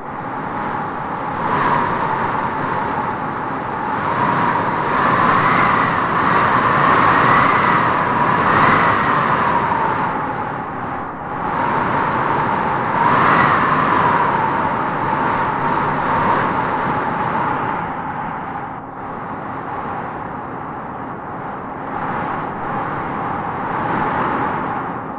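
Wind howling in gusts: a steady rush with a whistling, wavering pitch that swells and falls, strongest in the middle of the stretch.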